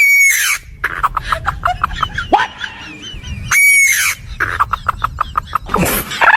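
Birds calling: a long loud pitched call at the start and another about three and a half seconds in, with fast short chirps and clicks between and after.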